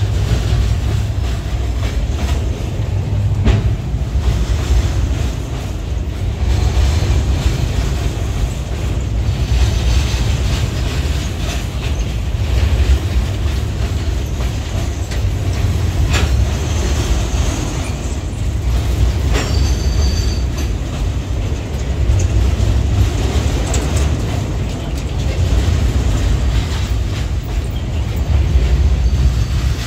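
Loaded freight wagons rolling past close by: a steady low rumble of steel wheels on the rails, with a few knocks as wheels cross the rail joints and brief high-pitched wheel squeals a little past the middle and again at the end.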